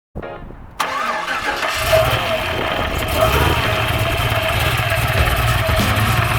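Supercharged 6.2-litre V8 of a Cadillac CTS-V, modified to about 850 hp, cranking and firing up, then settling into a steady, deep idle.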